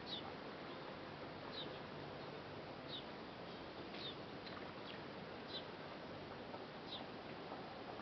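A bird calling over and over: short, high, falling chirps about every one and a half seconds, six in all, over a steady faint hiss.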